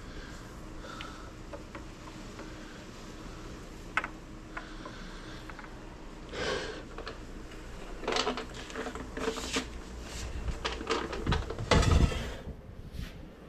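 A series of knocks, scrapes and rattles from hard objects being handled, busier in the second half, with a heavy thump shortly before the end.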